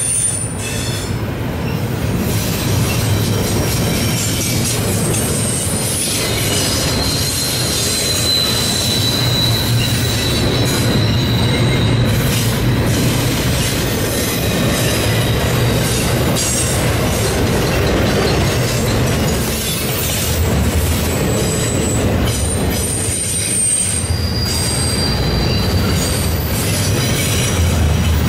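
Double-stack container train's well cars rolling past with a steady rumble of wheels on rail. Thin, high wheel squeals come and go over it.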